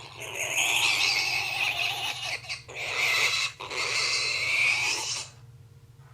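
Pig squealing in about three long stretches, stopping about five seconds in.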